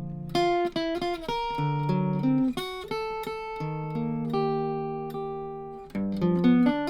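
D'Angelico NYS-1 archtop guitar played unplugged with a pick: solo jazz chord-melody, chords struck every half second to second under a melody line, each ringing and fading, dry with no reverb.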